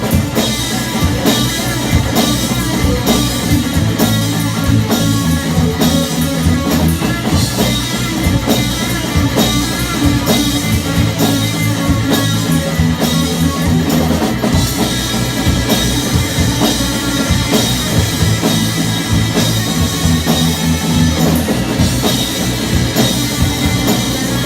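Rock band playing live: a drum kit hit in a steady beat under electric guitars and bass guitar.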